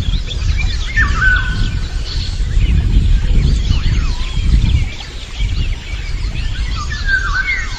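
Several birds chirping and calling, one giving a whistled call twice, about a second in and near the end, over a loud, uneven low rumble.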